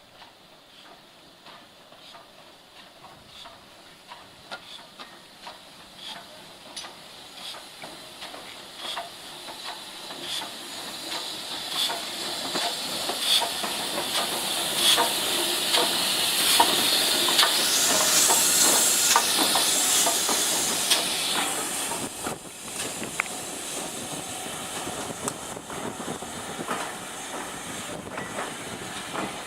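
Steam locomotive approaching and passing with its train. Rhythmic clicks grow steadily louder, and a loud steam hiss rises to a peak about eighteen seconds in. The sound then eases off as it goes by.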